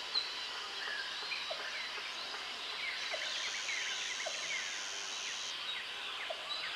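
Tropical forest ambience: a steady high-pitched insect drone under many birds chirping and whistling, with a short low call repeating every second or so.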